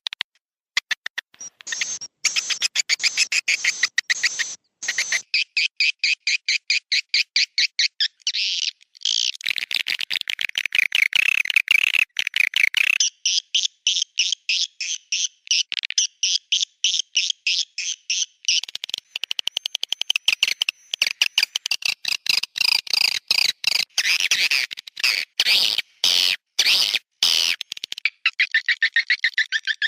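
Swiftlet roosting ('inap') lure call: rapid, high twittering chirps of swiftlets in long trains broken by short pauses, a recording played in swiftlet houses to draw the birds in to roost.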